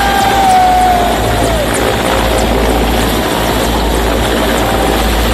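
Helicopter running loud and steady, a dense rotor and engine noise with a deep rumble. In the first second and a half a high whine with overtones slides down in pitch and fades.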